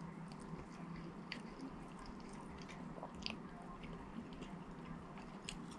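Faint chewing and mouth sounds of a man eating fast food, with scattered small wet clicks and crackles over a low steady hum.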